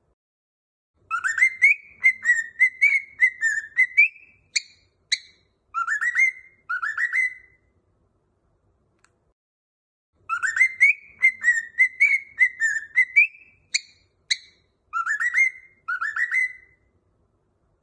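A whistled song phrase of swooping, rising whistles and quick short notes, given twice with a pause of about three seconds between.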